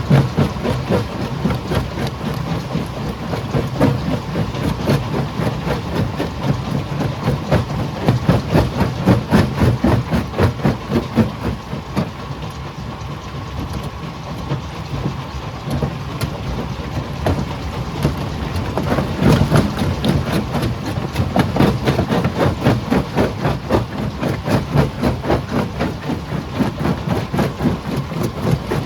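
Stone crusher machine running: a steady engine drone under a fast, rhythmic clatter of rock, easing slightly about halfway through and picking up again.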